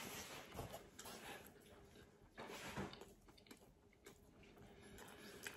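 Faint chewing of a mouthful of pizza: soft, irregular wet clicks and squishes, a little louder about halfway through.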